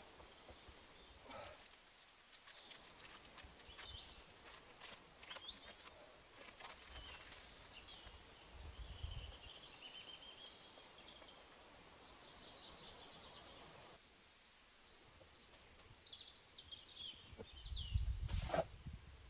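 Small birds chirping and trilling in short calls, with scattered clicks and knocks, and a few heavier thuds and knocks near the end.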